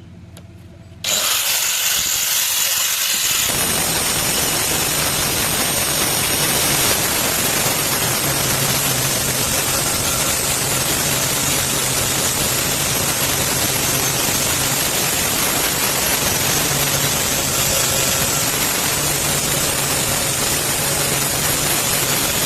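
An electric power tool, such as a grinder, switches on about a second in and runs steadily with a loud, even noise, a faint low hum joining it a couple of seconds later.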